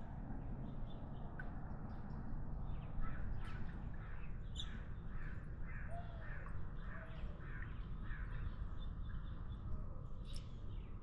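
A bird calling in a run of about a dozen short repeated notes, two to three a second, over a steady low background rumble.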